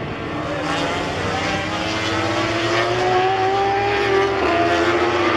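Racing motorcycle engine at high revs, its pitch rising slowly as it draws nearer and louder, with a brief drop in pitch about four and a half seconds in.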